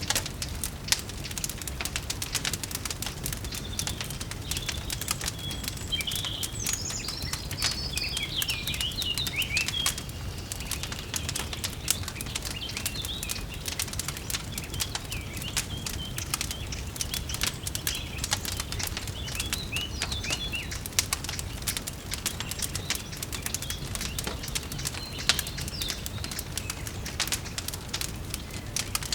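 Wood fire crackling in a fireplace, with steady small pops and clicks over a low rumble, while songbirds chirp and twitter, most busily a few seconds in and again toward the later part.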